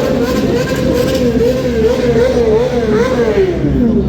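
BMW S1000RR inline-four engine running through an Akrapovic GP exhaust, held at raised revs with small repeated throttle wavers, then dropping back near the end.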